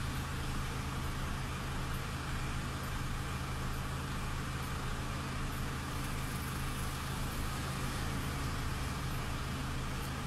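Car engine idling: a steady low hum with a faint hiss, unchanging throughout.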